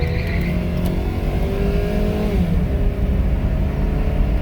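Dodge's 2.4-litre four-cylinder engine under hard acceleration: the revs climb, drop sharply as it shifts up about two and a half seconds in, then climb again, over a steady low rumble.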